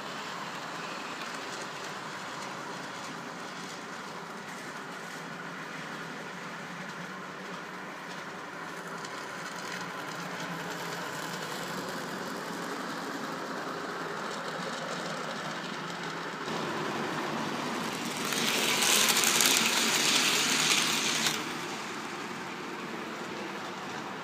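N gauge model trains running on the layout: a steady whir of small locomotive motors and wheels on the track, growing louder and hissier for about three seconds near the end.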